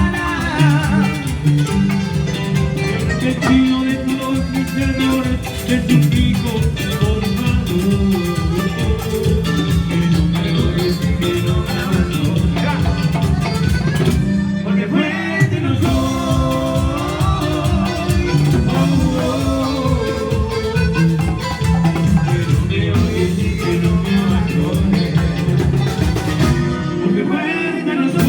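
A band playing Latin dance music in a salsa style, with a steady beat, guitar and some singing; the music breaks off briefly about halfway through and again near the end.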